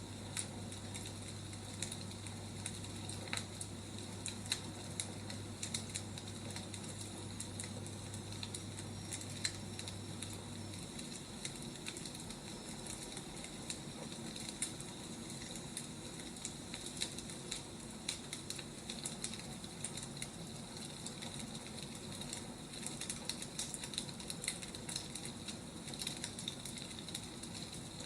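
Wood fire crackling, with irregular sharp pops and snaps over a steady hiss. A low hum underneath stops about a third of the way in.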